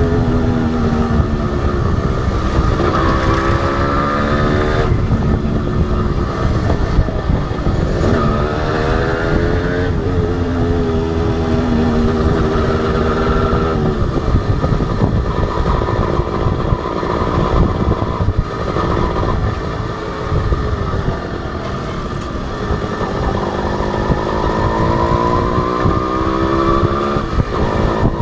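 Honda H100S single-cylinder two-stroke motorcycle engine under way, its pitch climbing as it accelerates and dropping back at each gear change, several times over. In the middle it eases off and the pitch sinks for a while before it pulls up again.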